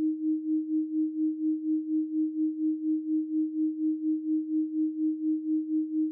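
A 312 Hz pure sine tone, held at one pitch, its loudness pulsing evenly about five times a second.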